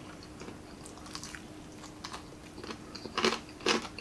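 Close-up chewing and crunching of crispy fried chicken neck, with soft mouth clicks throughout and two louder crunches half a second apart about three seconds in.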